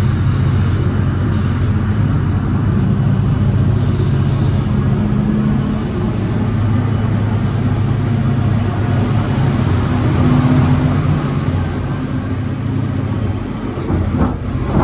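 V/Line N-set passenger train running at speed, heard from on board: a steady low rumble of the carriage and locomotive under way, with a thin high wheel squeal from about eight to twelve seconds in.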